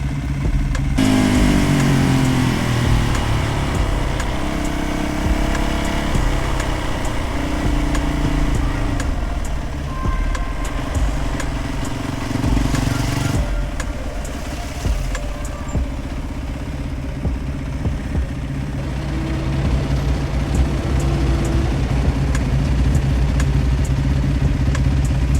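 A motor vehicle engine, most likely a motorcycle, pulls away about a second in, rising in pitch as it picks up speed, then runs on at speed with a steady rumble.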